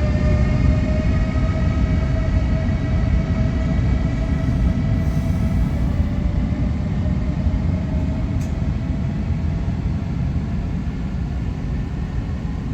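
Electric train running close by: a heavy steady rumble with a whine of several tones that rises slowly in pitch as the train picks up speed.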